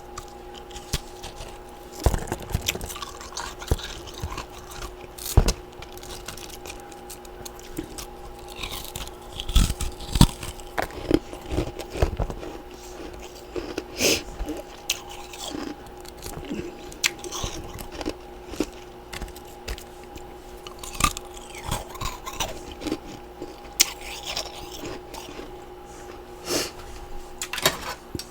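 Freezer frost and ice chunks being bitten and chewed close to the microphone: irregular crisp crunches, with a steady hum underneath.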